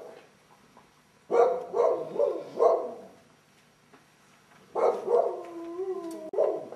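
A dog barking several times in quick succession, then one more bark that runs into a drawn-out, wavering howl which cuts off abruptly near the end.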